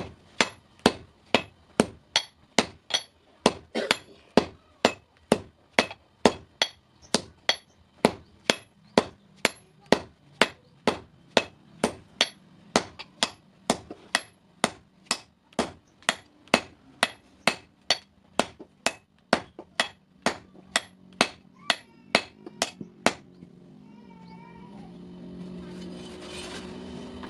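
Blacksmith's hand hammer striking hot steel on an anvil, forging a hasua blade: steady, evenly paced blows at about two a second, each with a short metallic ring, stopping about 23 seconds in. After that a few faint wavering high calls and a rising low hum.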